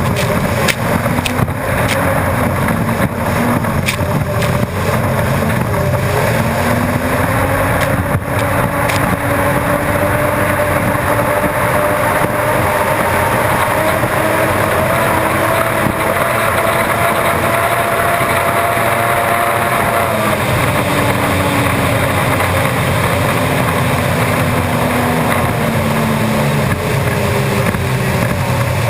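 Unlimited hydroplane's turbine engine running at racing speed, heard from onboard: a loud, steady roar with a whine that rises slowly in pitch and eases back down near the end.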